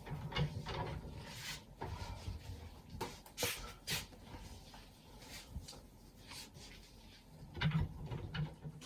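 Small handling sounds in a small room: a string of short clicks, knocks and rustles of things being moved, picked up and put down, the loudest around three and a half seconds in and near the end.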